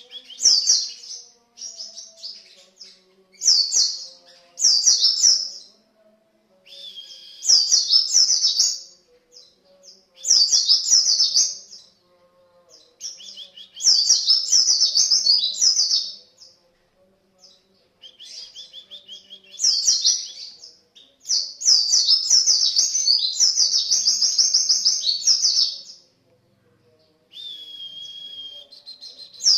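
White-eye (pleci) singing in rapid, high-pitched twittering phrases, about ten of them lasting one to four seconds each with short pauses between. This is a lure song, played to set other white-eyes singing.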